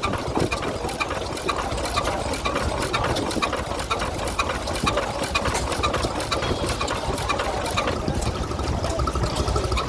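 An engine running steadily with a rapid mechanical clatter. A faint steady whine joins it near the end.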